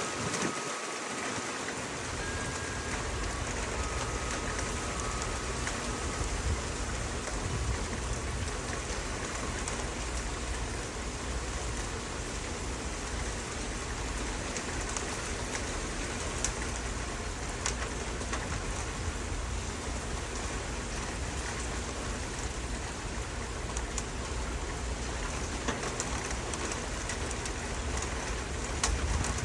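Steady rain falling and pattering on surfaces, with individual drops ticking through it.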